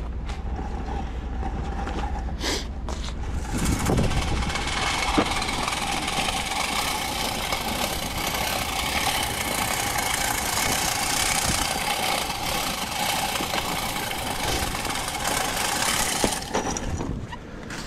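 Salt spreader running: a steady whine with a hiss of salt being thrown. It starts about three and a half seconds in and cuts off suddenly near the end.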